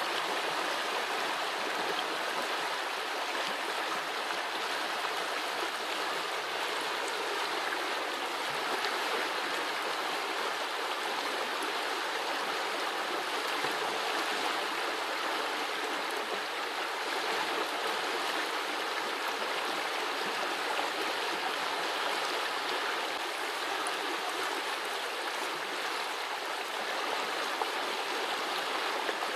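Small forest brook flowing, a steady babbling and gurgling of water over the stream bed.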